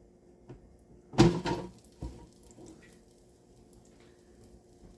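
Kitchen handling noise: a loud knock about a second in that rings briefly, then a lighter clack, as something is set down or picked up while cooking.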